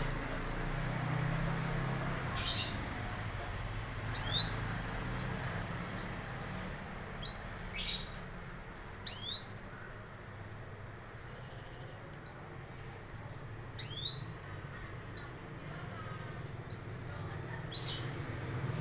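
Canary giving short, rising chirps, spaced irregularly about one a second, with a few sharp clicks among them and a low steady hum underneath.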